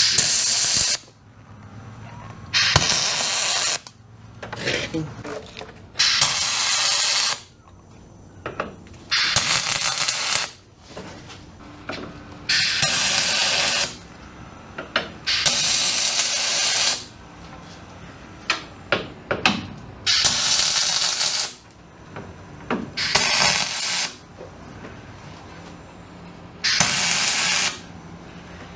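Compressed air hissing in about nine short bursts of a second or so each, with small clicks and taps between them.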